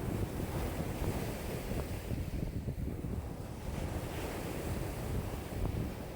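Lake waves washing and lapping in a strong wind, with wind buffeting the microphone as a steady low rumble.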